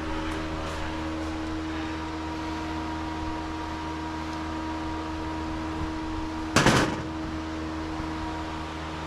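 A steady mechanical hum, with one brief, loud, noisy clatter or scrape about six and a half seconds in.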